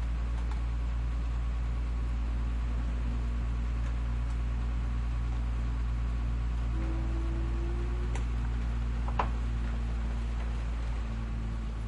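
Garbage truck's diesel engine idling steadily with a low hum, with a single sharp click about nine seconds in.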